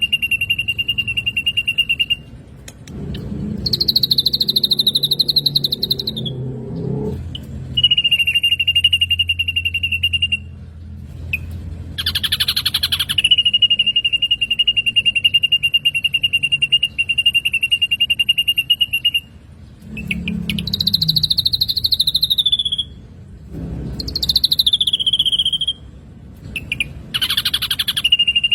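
Black drongo song: long, rapidly pulsed notes held on one steady pitch for several seconds at a time, alternating with shorter, higher notes that slide down in pitch.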